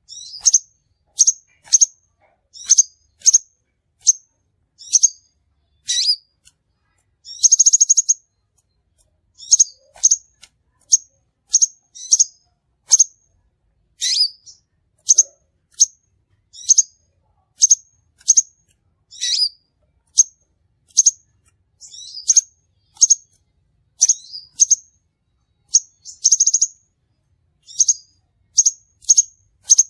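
Crimson sunbird calling: sharp, high chirps repeated about once or twice a second, broken twice by a longer buzzy trill.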